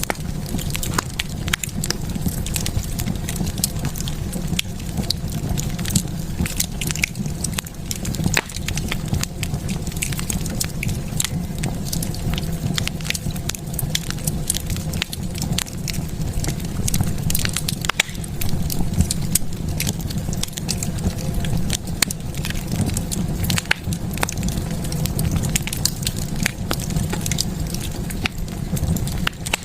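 Wood fire burning in a fireplace, crackling with frequent sharp pops and snaps over a steady low rumble of the flames.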